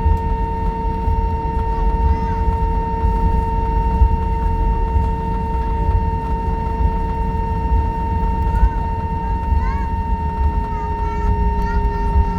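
Cabin noise inside an Airbus A320 on the ground after landing: a steady low rumble with two steady whining tones, the lower one slowly dropping in pitch near the end. Faint short chirping glides come in over the last few seconds.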